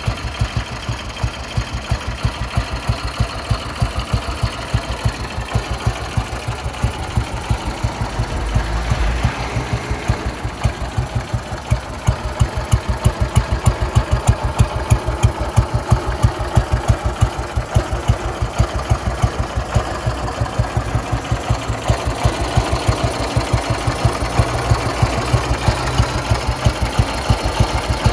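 1957 Ariel NH350's single-cylinder four-stroke engine idling with an even, steady beat. It rises briefly about nine seconds in and is louder from about twelve seconds on, heard close to the chrome exhaust.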